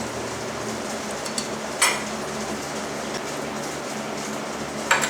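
Two sharp metallic clinks about three seconds apart, metal tools and parts knocking together while a vintage cast-iron planer is taken apart, over a steady background hum.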